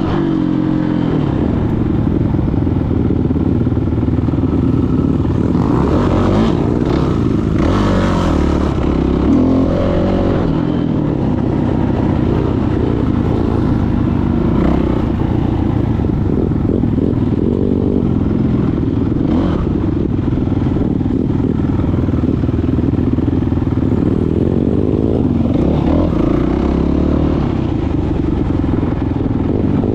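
Dirt bike engine running under way, revving up and easing off again and again, its pitch rising and falling with throttle and gear changes.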